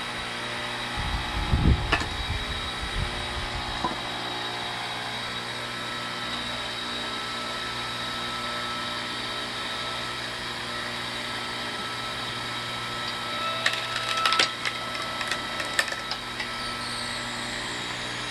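Log splitter's motor running steadily while logs are split, with wood cracking and splintering: a heavy thump and crack a couple of seconds in, and a run of sharp cracks and snaps near the end.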